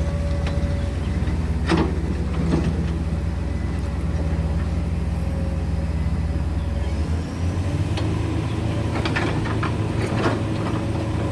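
Heavy diesel engine running steadily, its note changing about seven seconds in, with a few sharp clanks.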